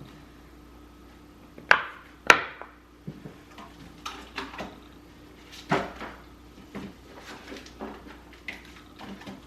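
A string of sharp knocks and clatters of hard objects being handled, with two loud ones close together about two seconds in and another near the middle, over a faint steady hum.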